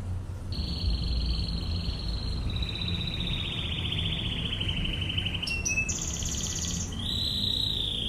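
Canary singing the rapid-fire 'ngebren' style of song: long, fast trills, each held a second or two at one pitch before dropping or switching to the next, with a short run of higher notes about five and a half seconds in. A low hum runs underneath.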